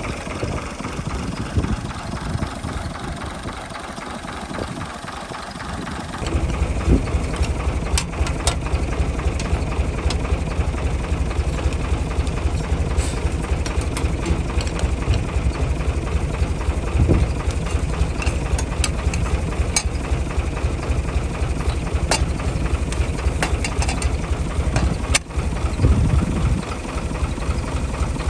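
Al-Ghazi 65 hp tractor engine running steadily. About six seconds in, its low rumble grows heavier and stays so, with occasional sharp clicks over it.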